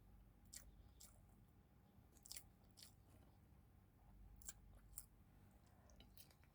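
Faint mouth sounds of someone eating: biting and chewing, with short crisp clicks coming in pairs every second or so.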